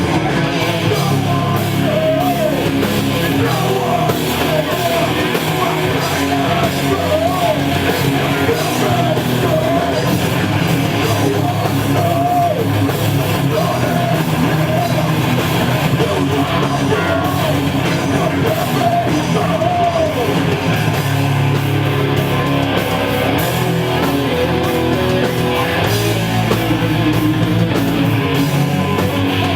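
Heavy metal band playing live and loud, with electric guitars, bass and drums. A wavering lead line rides over the band for much of the song section.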